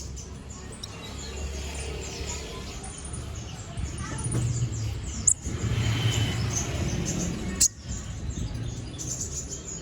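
Kolibri ninja (konin) songbird singing a fast, chattering run of high chirps, with two sharp, loud high notes about two and a half seconds apart, over a steady low rumble.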